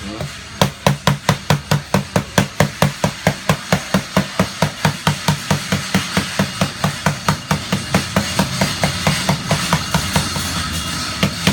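A phone's screen, coated with a nano anti-break liquid screen protector, is struck rapidly and repeatedly with a hard object, about four to five loud knocks a second. It is a strength test to show the glass does not break.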